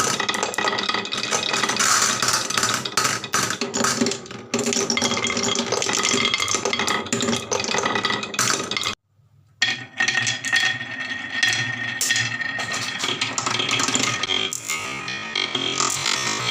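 Marbles clattering and rattling down a HABA marble run over background music. Both break off for about half a second roughly nine seconds in.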